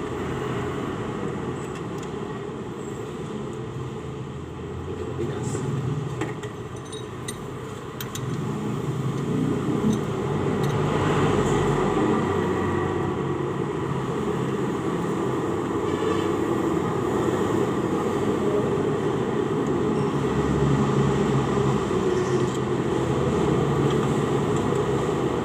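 Steady low rumble of background noise, a little louder from about ten seconds in, with a few light clicks of hand tools around six to eight seconds in.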